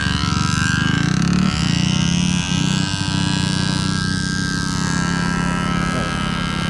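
Dirt bike engine running while riding, its pitch rising and falling as the revs change.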